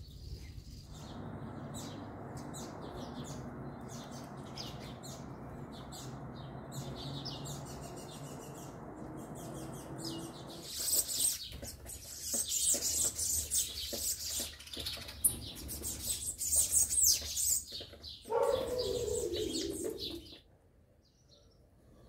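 Small birds chirping: many quick, high calls packed close together through the second half, with a lower call falling in pitch near the end. The first half is a steady low rushing noise with only scattered faint chirps.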